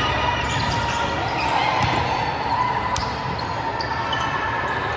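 Volleyballs being struck and bouncing in a large echoing gym hall, over a steady background din.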